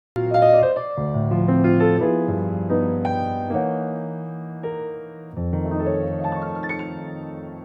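Background piano music: soft chords and melody notes that start abruptly just after a brief silence, with a new low chord struck about five seconds in and left to ring.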